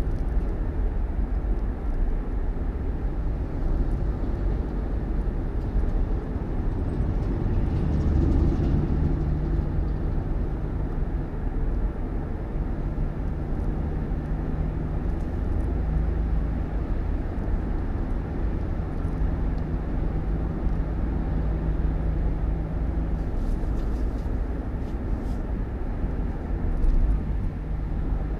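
Steady low rumble of a vehicle's engine and road noise with a constant engine hum, swelling briefly about eight seconds in.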